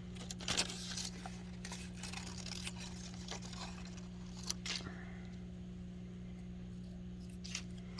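Scissors snipping through construction paper in short, irregular cuts, with the paper rustling as it is handled, over a steady low hum.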